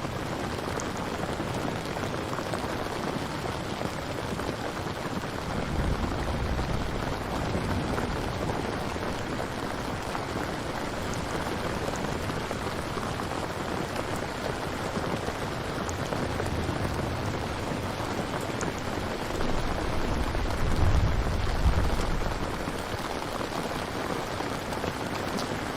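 Steady rain falling, with low rumbles of thunder swelling up three times. The strongest rumble comes about 21 seconds in.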